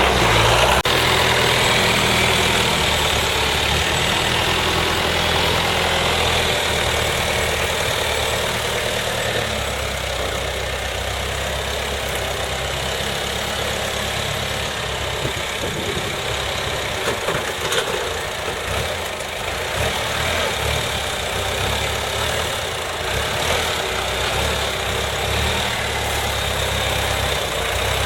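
A vehicle engine running steadily with a low hum, under a continuous rushing noise.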